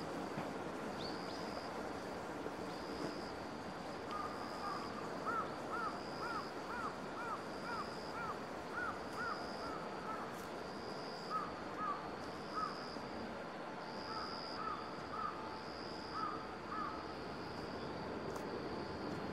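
Birds calling: runs of short arched calls, about two a second, over a high thin note that repeats roughly once a second and a steady background hiss.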